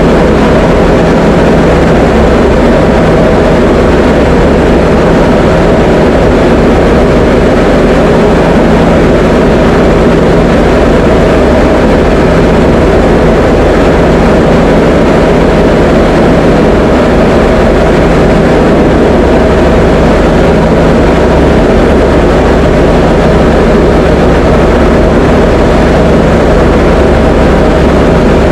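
Diamond DA20 light aircraft's piston engine and propeller droning steadily in flight, with a constant low hum and no change in pitch or level.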